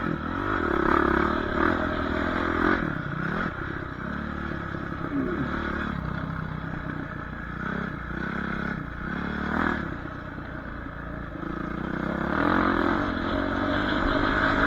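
Dirt bike engine riding, its revs rising and falling over and over as the throttle is worked around the track, with rattling from the bike.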